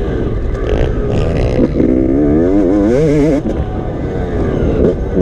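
Motocross dirt bike engine revving, its pitch rising and falling quickly over and over, over a steady low rumble.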